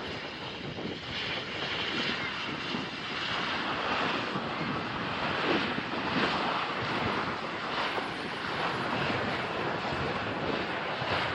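Airliner engines running with a steady rushing noise.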